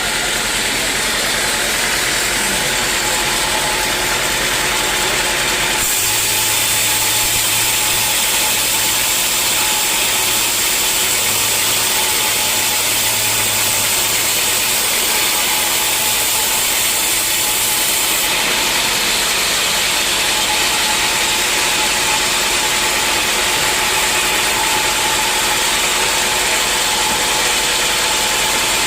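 Sawmill machinery running steadily and loudly, with a low hum and a harsher high-pitched noise joining in from about six seconds in until about eighteen seconds in.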